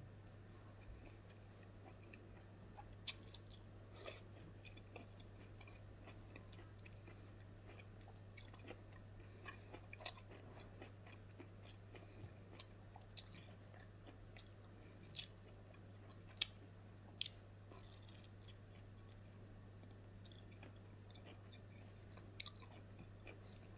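Quiet close-miked chewing of smoked pork: scattered wet mouth clicks and smacks at irregular intervals, over a steady low hum.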